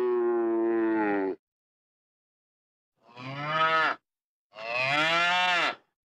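Cows mooing: a long, steady moo that ends about a second and a half in, then two shorter moos, each rising and then falling in pitch.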